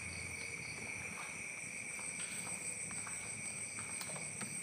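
Steady chorus of insects: several unbroken high-pitched tones layered together, with a few faint scattered clicks.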